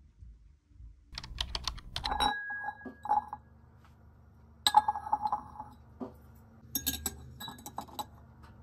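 Objects being handled: a string of light clicks and knocks, with two ringing clinks about two and five seconds in, like glass or ceramic being set down.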